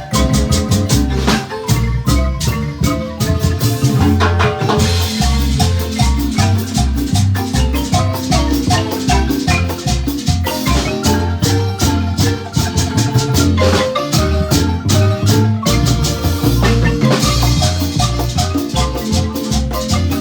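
Marimba band playing a lively tune: rapid struck notes over a repeating bass line.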